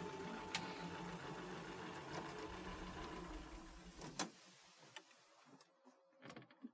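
Vintage open touring car's engine running at low speed, then cutting off about four seconds in with a sharp click. A few faint clicks and knocks follow.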